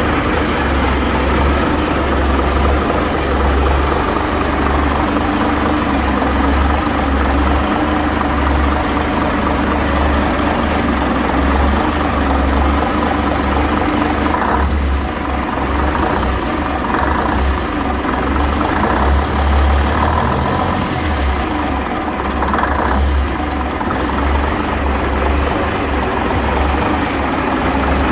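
Gardner 6LYT six-cylinder diesel engine idling steadily.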